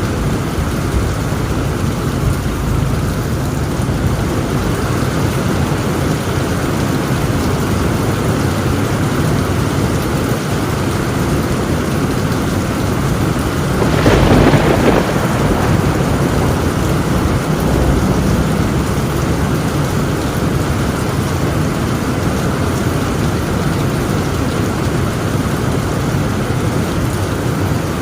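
Heavy rain drumming steadily on a tin roof, with one sharp thunderclap about halfway through that rumbles away over a couple of seconds.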